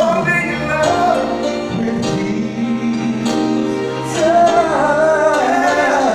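Gospel worship song: voices singing over instrumental accompaniment.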